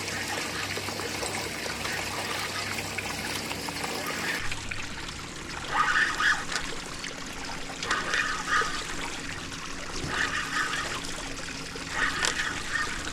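River water trickling and lapping against a small boat's hull. From about six seconds in, a short pitched sound repeats roughly every two seconds.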